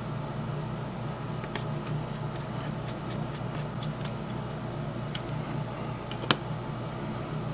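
Light clicks and taps from small model-locomotive parts being handled and fitted by hand, with one sharper click about six seconds in, over a steady low background hum.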